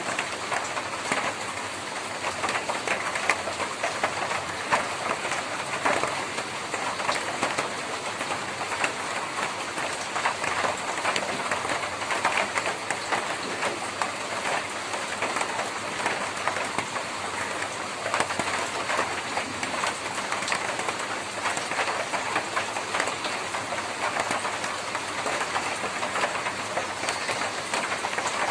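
Rain falling on a tin roof: a dense, steady patter of drops on the metal sheets, with many small sharp ticks from single drops.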